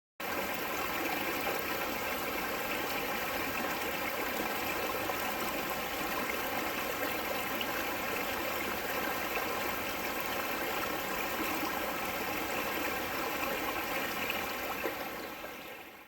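Steady rushing water noise, like a stream, that starts abruptly and fades out near the end.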